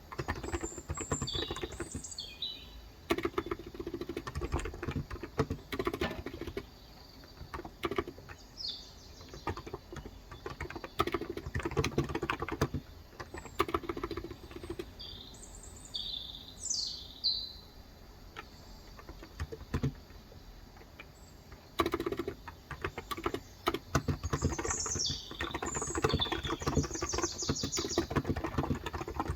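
Typing on a Cox Endeavor electrostatic capacitive tenkeyless keyboard with 35 g switches, in bursts with short pauses. Birds chirp outside several times, in short high calls.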